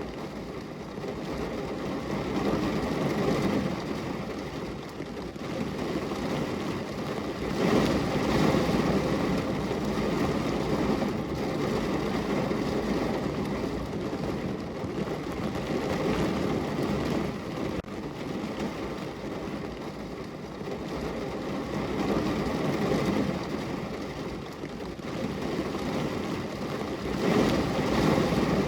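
Heavy rain falling on a car's roof and body, heard from inside the car: a steady, dense patter that swells in stronger spells about eight seconds in and again near the end.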